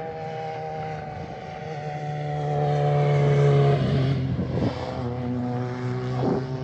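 A car driving past, its engine note growing louder and then dropping in pitch about three and a half seconds in as it goes by.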